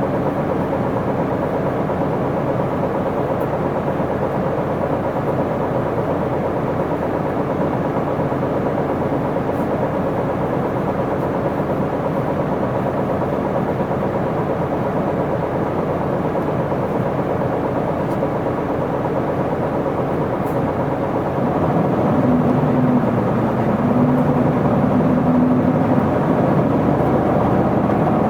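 Isuzu Erga city bus driving along, heard inside the cabin: a steady diesel engine and road noise. About 22 s in, the engine note gets louder and rises in steps as the bus accelerates.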